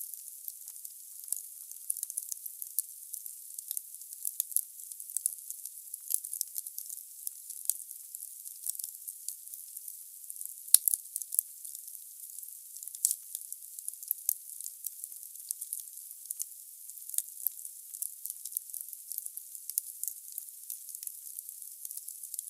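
Firewood burning in a fireplace, crackling with frequent sharp pops over a steady hiss. One louder pop about halfway through.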